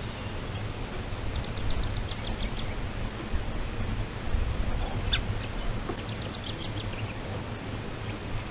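Small birds chirping in two quick runs of short, high notes that step down in pitch, about a second and a half in and again around five seconds in, over a steady low hum.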